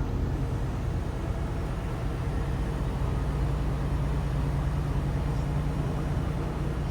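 Truck being driven: steady low engine drone and road noise, with no change in pitch or level.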